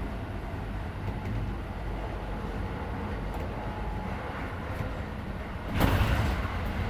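Running noise heard inside a Keisei 3400-series electric train car at speed: a steady low rumble of wheels on rail. About six seconds in, a sudden louder rush sets in and stays up.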